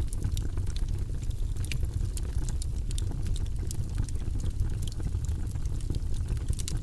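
Wood logs burning in a fireplace: a steady low rumble of the flames with frequent small, sharp crackles and pops of the burning wood.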